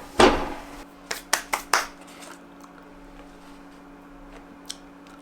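Kitchen handling clatter: one loud clattering knock, then four quick sharp taps within about a second, over a steady low hum.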